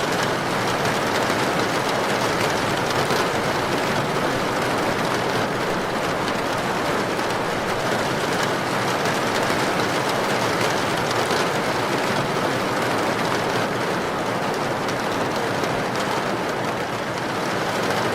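Heavy rain pouring down with wind, a dense, even rush of water noise that holds steady throughout.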